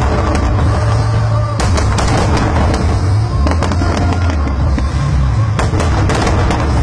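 Fireworks going off over loud music with deep sustained notes. Sharp bangs and crackles come in clusters, one about one and a half seconds in and another near the end.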